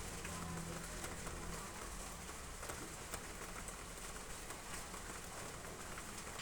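Heavy rain falling steadily on roof tiles: an even hiss dotted with many sharp drop taps. A low steady tone runs through the first second and a half.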